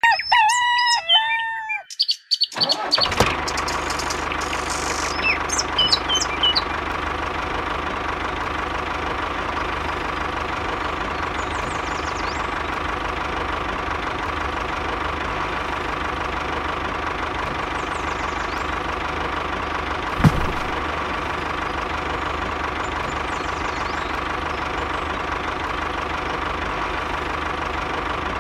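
Two seconds of loud warbling tones, then a tractor engine running steadily, with faint bird chirps now and then and a single thump about twenty seconds in.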